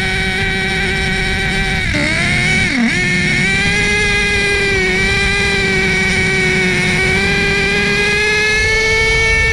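HPI Savage X 4.6 nitro monster truck's small glow engine running at high revs, held steady, with two brief dips in pitch about two and three seconds in.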